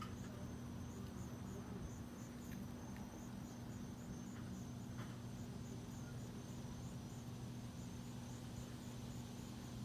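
Faint insect chirping, a high thin pulse repeating evenly about two to three times a second, over a steady low hum.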